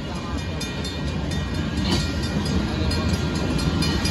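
Loaded gravel hopper cars of a freight train rolling past: a continuous rumble and rattle of steel wheels on the rails, growing a little louder.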